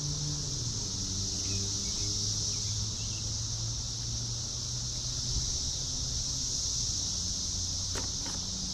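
Outdoor farmyard ambience: a steady high-pitched insect chorus over a low steady hum, with a few sharp clicks near the end.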